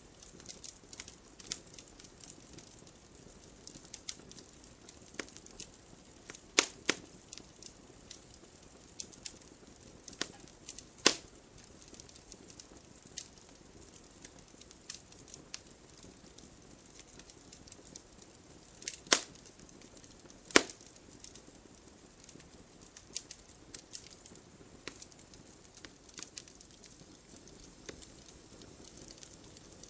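Wood fire crackling: frequent small snaps and ticks over a faint steady hiss, with a handful of louder pops.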